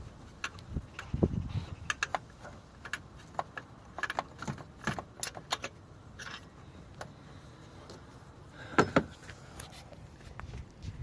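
Metal hand tools clinking and tapping against metal in irregular clicks while the starter motor's top mounting bolt is undone, with a louder knock near the end.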